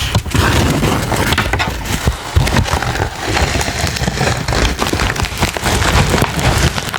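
Close-miked crinkling and rustling of packaging being handled, a dense run of small crackles and clicks.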